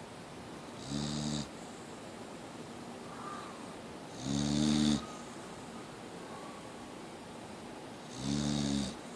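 Boxer dog snoring: three short snores about three and a half seconds apart, the middle one the loudest.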